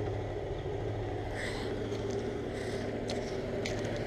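Outdoor air-conditioning condensing units running: a steady hum of compressors and fans with several low, steady tones, and a few faint ticks.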